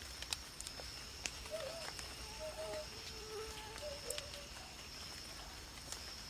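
Night insects, with one cricket-like insect trilling steadily on a single high tone. Faint short warbling calls from another animal come in the middle, and there are a few scattered sharp clicks.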